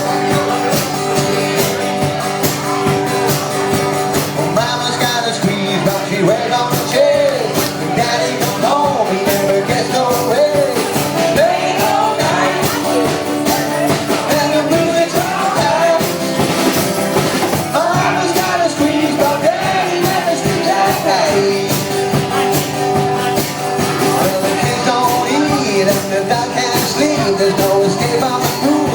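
Live music: a squeeze box holds sustained chords under a singing voice, with a steady percussive beat.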